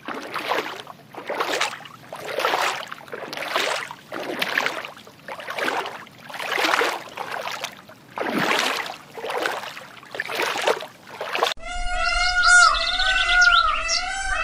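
An animal's hoarse calls repeated about once a second, each one swelling and fading. Near the end there is a sudden cut to a different animal's wavering, whistle-like calls with quick chirps.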